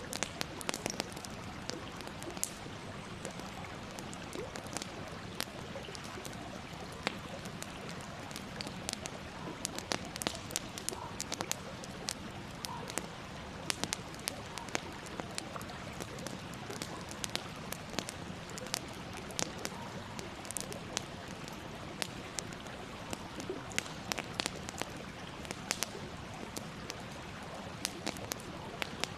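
Campfire crackling: a steady hiss with frequent, irregular sharp pops and snaps.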